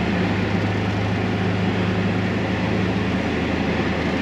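Polaris Ranger Northstar UTV engine running at a steady drone, heard from inside its closed cab, while the machine creeps along in low range and all-wheel drive; the cab heater fan blows steadily underneath.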